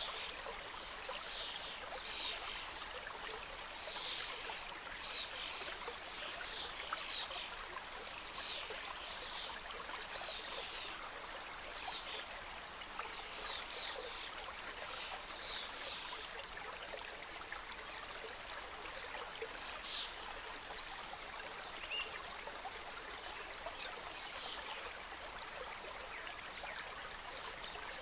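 Mountain stream flowing over rocks, a steady rush of water with frequent brief bright splashes and gurgles scattered through it.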